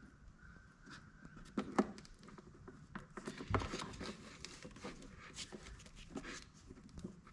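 Faint, scattered light clicks and taps of parts being handled, with a sharper click just under two seconds in and a low thump about three and a half seconds in.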